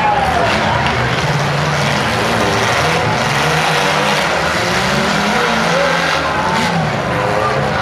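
Engines of several small demolition-derby cars running and revving together, their pitch rising and falling as the cars push and ram one another.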